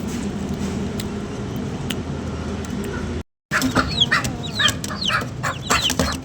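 Chickens clucking and chirping: after a short break about three seconds in, a flurry of quick, high, falling chirps and clucks. Before the break there is a steady low hum.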